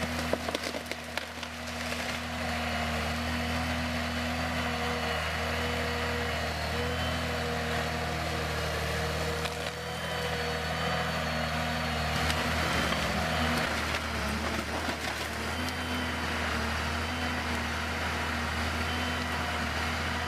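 A heavy wood-working machine's engine running steadily with a held whine over a low hum, with a few sharp knocks in the first two seconds.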